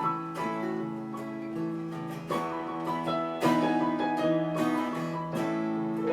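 Instrumental break on strummed acoustic guitar with piano, with held chords and fresh strums every second or so, without singing.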